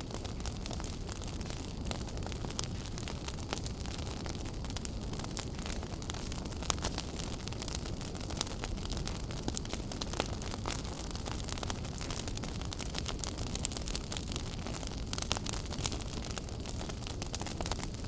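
Wood fire burning in a fireplace: a steady low rumble and hiss with frequent sharp crackles and pops scattered throughout.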